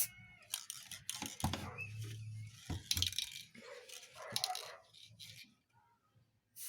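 Stick-welding arc from a repaired Vega VW 320 welding inverter, crackling and sputtering in irregular bursts, with a low hum between about 1.5 and 3 seconds in. This is a test weld after its burnt-out transistors were replaced.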